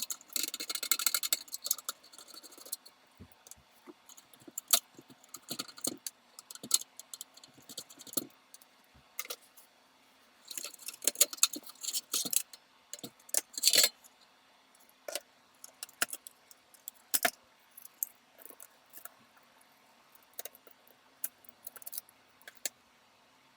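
Small metal parts being handled at a workbench: scattered clicks, clinks and rattles, with a dense metallic jingling in the first two seconds and another busy cluster about halfway through.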